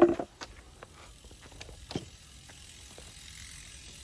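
Knocks and light clicks of a camping kitchen unit's parts being handled as a section is lifted out: a loud knock at the start, a few small clicks, and another knock about two seconds in.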